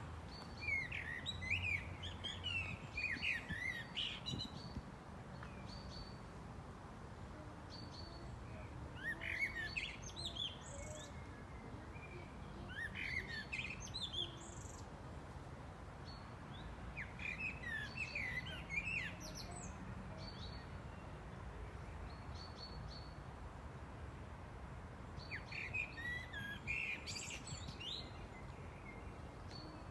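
Small birds chirping and twittering in five bursts of quick, swooping notes, each lasting one to four seconds, over a steady low background noise.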